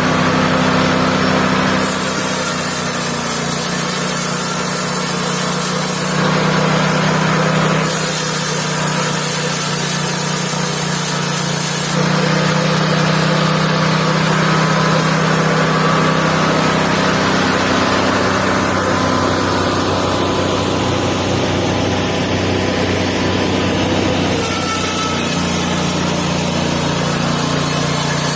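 Mobile band sawmill running steadily, its band blade sawing through timber, with a high hiss that comes and goes several times.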